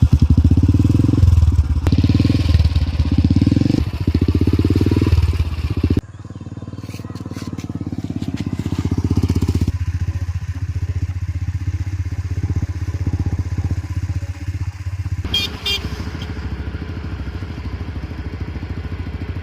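Royal Enfield Thunderbird 350X single-cylinder engine, just serviced, blipped with the throttle for about six seconds, then dropping suddenly to a steady idle.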